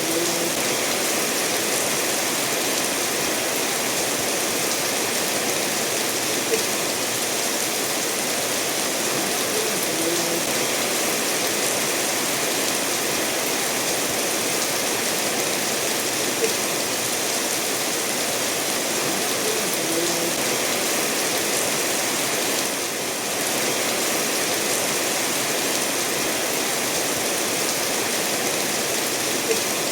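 Steady rain falling together with a stream running over stones, an even hiss, with a few soft plinks now and then.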